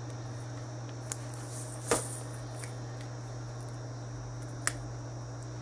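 A few short, sharp clicks, the loudest about two seconds in, as the rings of a butted steel maille shirt are worked apart by hand. A steady low electrical hum runs underneath.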